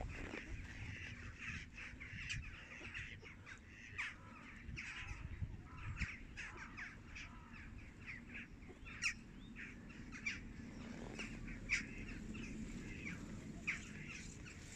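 Birds calling sporadically, many short calls scattered through, over a steady low rumble.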